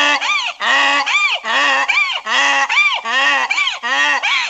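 Waterfowl honking over and over: about a dozen short, loud honks, each rising and falling in pitch, coming in quick pairs.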